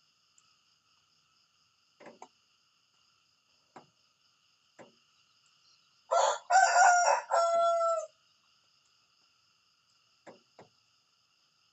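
A rooster crowing once, a full cock-a-doodle-doo of several stepped notes lasting about two seconds, starting about halfway through. Faint steady high-pitched trilling runs behind it, with a few short, soft calls.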